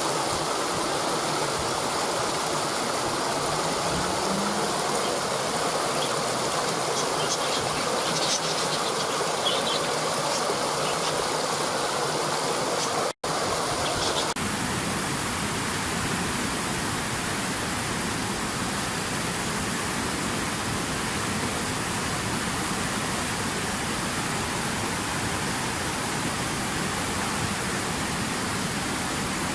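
Waterfall water rushing over rocks, with faint bird chirps behind it. A little before halfway the sound cuts out for an instant, then a steadier rushing of stream rapids takes over.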